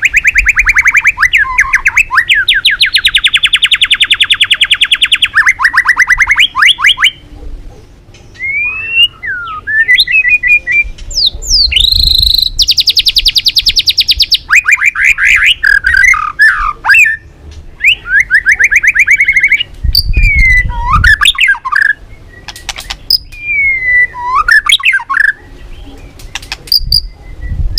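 White-rumped shama singing: long, very rapid trills alternate with whistled, slurring notes that glide up and down, with short breaks between phrases.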